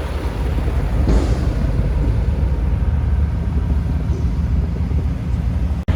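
Steady low rumble of road traffic, with a short hiss about a second in. The sound drops out abruptly for an instant near the end.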